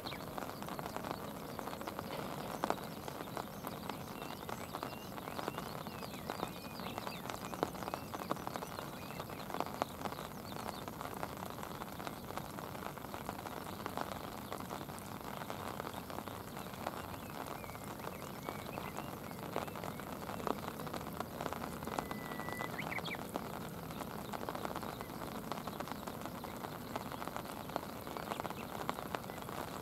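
Steady rain falling on a shallow river and its stony shore: a constant hiss with many small drop ticks.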